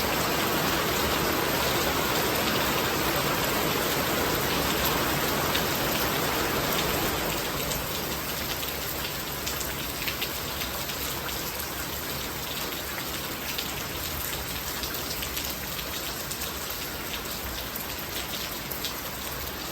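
Steady rain falling, with individual drops hitting close by; it eases slightly about seven seconds in.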